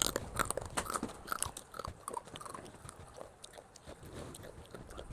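Close-up crunching and chewing of crispy basreng (fried meatball chips), a dense run of crisp bites for the first couple of seconds, then softer chewing.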